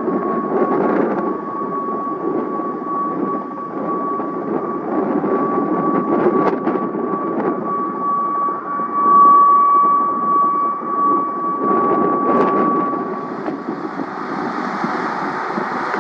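Aircraft engine running close by: a steady rush of noise with a steady high whine on top, which fades about three seconds before the end as a higher hiss takes over.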